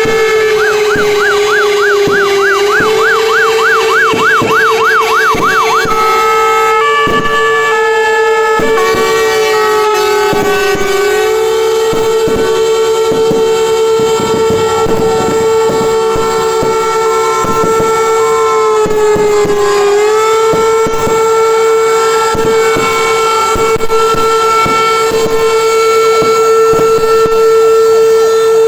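Several fire engines' sirens and horns sounding together: a steady held horn tone under electronic sirens, one warbling fast for the first six seconds, others gliding slowly up and down.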